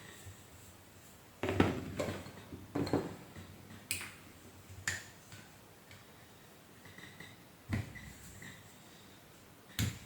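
Parts being handled during a vacuum cleaner repair: about six separate knocks and clicks, the loudest two in the first three seconds.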